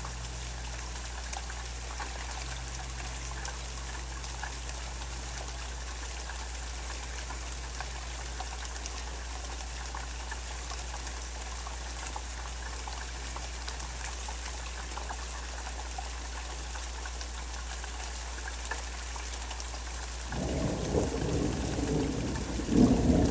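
Steady rain falling, with a low rumble of thunder coming in near the end and swelling to a loud peal.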